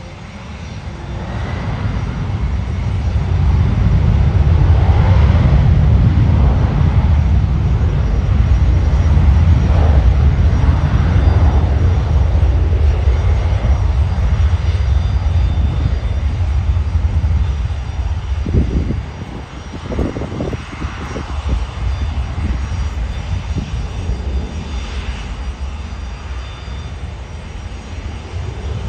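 Bombardier Global business jet's twin turbofans going past with a deep rumble. It builds over the first few seconds, stays loud for about ten seconds, then slowly fades.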